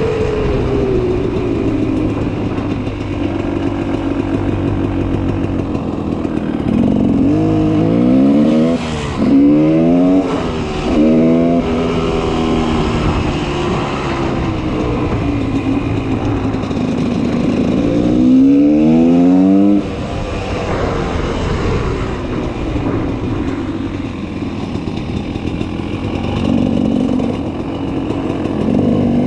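2004 GasGas 300 EC single-cylinder two-stroke engine through an FMF Powercore 2 silencer. The revs fall away at the start and the engine runs steadily, then it is revved up sharply four times in the middle, each rise quick and then dropping off. It settles back to a steady lower note, with one smaller rise near the end.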